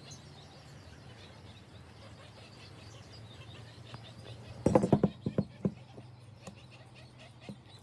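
A quick run of sharp clicks and knocks a little under five seconds in, tapering into a few scattered ticks, over a steady low hum and faint bird chirps.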